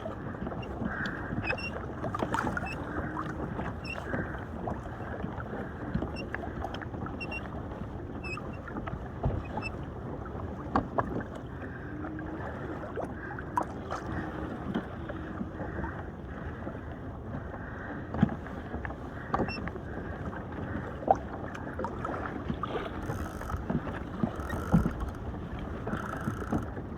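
Water lapping and splashing against a kayak's hull out on the ocean, a steady wash with scattered short knocks.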